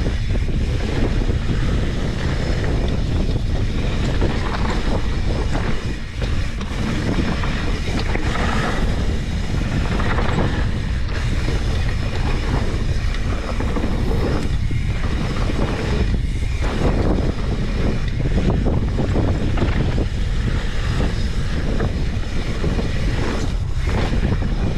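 Steady rushing and buffeting noise, heaviest in the low end, of wind and motion on the microphone during a fast ride.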